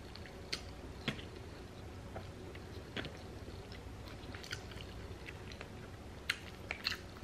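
Quiet close-up chewing of a burger, with scattered short, sharp wet mouth clicks and smacks.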